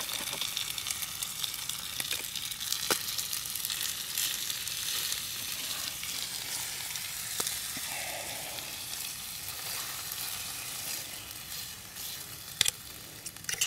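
Chicken pieces sizzling steadily in hot oil in a small camping frying pan, with a few sharp clicks and scrapes of a fork turning them.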